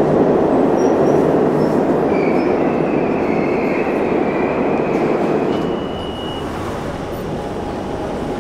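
Underground train running past a station platform: a loud rushing noise with a thin high whine partway through, easing off about six seconds in.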